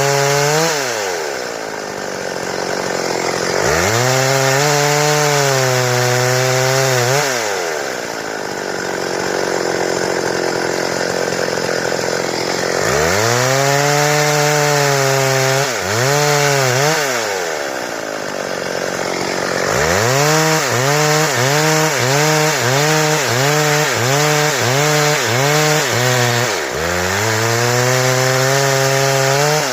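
Stihl chainsaw cutting boards, revved to full throttle in several long bursts and dropping back to idle between them. In one long burst past the middle, the engine pitch wavers about twice a second.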